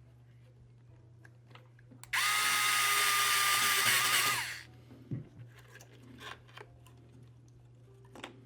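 Electric screwdriver running for about two and a half seconds at a steady pitch, starting about two seconds in, driving a screw into the remote controller's plastic shell. Light clicks and taps of handling parts follow.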